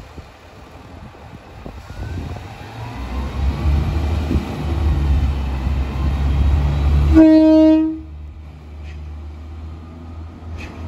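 A diesel multiple-unit train approaching with a low rumble that builds for several seconds. It sounds its horn in one short single-note blast of under a second, and a quieter low engine hum runs on after.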